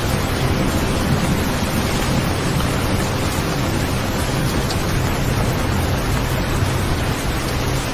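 Steady rain sound: a dense, even hiss of falling rain with a deep low rumble beneath, unbroken throughout.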